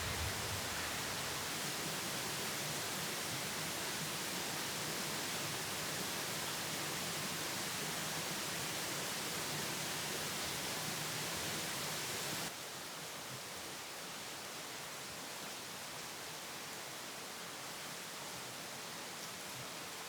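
Steady, even hiss of ambient noise with no distinct events; it drops abruptly to a quieter hiss about twelve seconds in.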